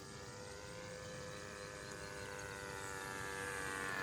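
Small O.S. .20 model-airplane engine running at steady throttle as the RC plane flies, a buzzing tone that grows gradually louder as the plane comes closer.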